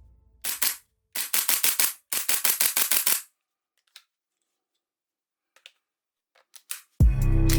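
A toy gun firing three rapid bursts of sharp clicking shots, about ten a second, followed by a few scattered single clicks. Music comes in near the end.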